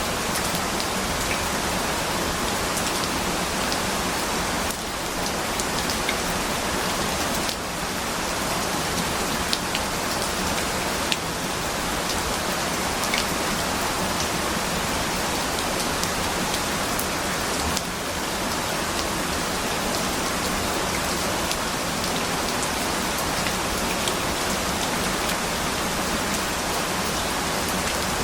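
Steady rain falling, an even rushing hiss with scattered light droplet ticks.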